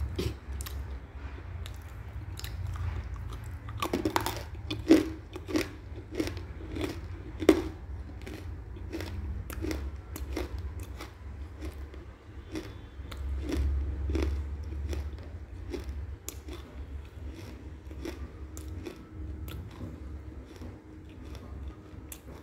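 Close-up chewing of hard chunks of edible clay: a run of sharp crunches, loudest and most frequent about four to eight seconds in, then softer crunching.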